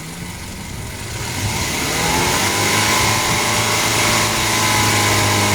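Car engine running with the hood open, revved up about a second and a half in and then held at raised revs. It is being run to check the misfire that fresh spark plugs were fitted to cure.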